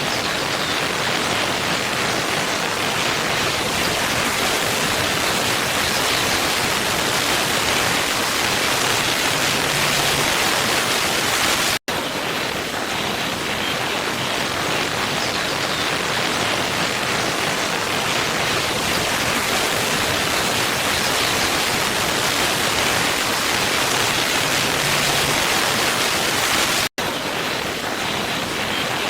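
Steady rushing of falling water: a looped waterfall recording. It drops out to silence for a split second twice, about fifteen seconds apart, where the loop joins.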